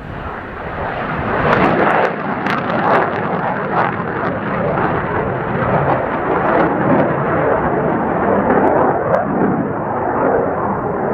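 Military jet engine roar that builds quickly over the first two seconds and then holds loud and ragged, with sharp crackles near the start, as of a jet taking off or passing close.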